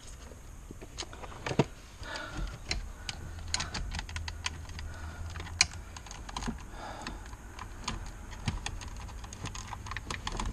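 Irregular sharp clicks and knocks of plastic dashboard trim being pulled and worked by hand. The part is stuck because it is still held by its mechanical control cables. The loudest knocks come about a second and a half in and again past the middle.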